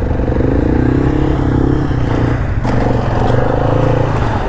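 ATV engine running steadily at raised revs under throttle, with a brief change in pitch about two and a half seconds in. The quad is stuck at a creek crossing: it is in four-wheel drive, but the front tires are not driving.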